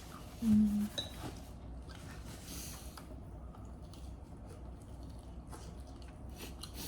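Quiet eating at a table: chewing and light utensil clicks against bowls, with a short hummed "mm" about half a second in.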